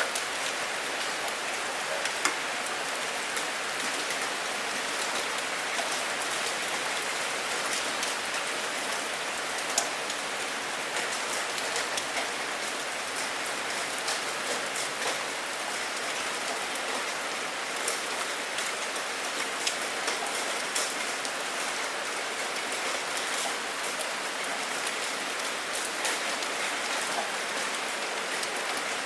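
Steady rain falling, a constant even hiss with scattered sharper drop hits standing out now and then.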